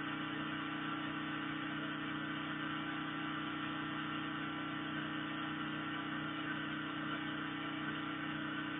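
A steady, even mechanical hum like an engine running at constant speed, with no change in pitch or level.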